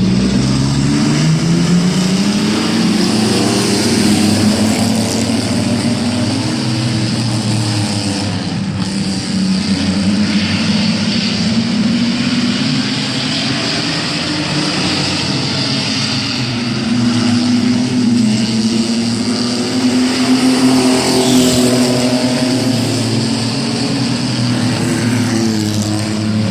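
Mini truck race engines running hard as the trucks race in a pack, the engine pitch rising and falling as they accelerate and back off.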